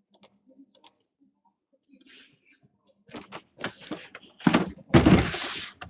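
Packaging being handled: a few faint clicks, then from about three seconds in, rustling and scraping of cardboard and plastic wrap, loudest near the end, as a sealed case of card boxes is opened.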